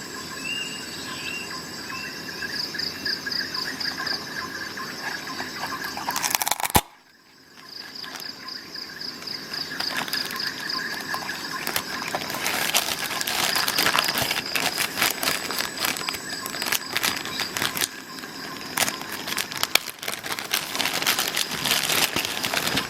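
Insects trilling steadily, with a few short bird chirps near the start. A single sharp knock comes about seven seconds in and is followed by a brief hush. From about ten seconds on there is a dense run of clicks and crinkling handling noise.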